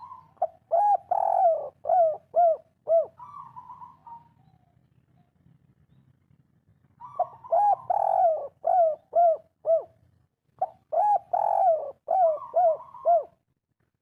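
Spotted dove (derkuku) singing its 'kuk 3' cooing song three times. Each phrase opens with a buzzy note, then runs into a string of rolling coos.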